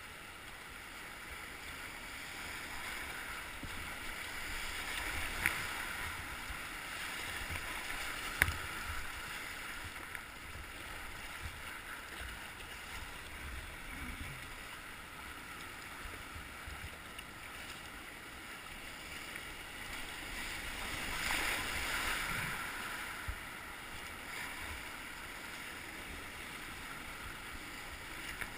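Rushing whitewater of river rapids around a kayak, a steady hiss that swells twice. A few sharp knocks sound early on.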